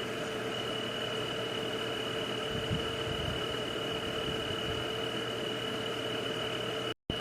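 Night-time nature ambience: a steady, unbroken high-pitched insect trill with a lower constant drone over an even hiss. The sound cuts out to silence for a split second near the end.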